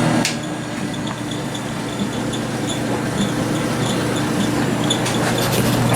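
Old Whirlpool dehumidifier switched on, with a sharp click shortly after the start, then a steady hum. A clothes dryer runs right next to it, which makes it hard to hear.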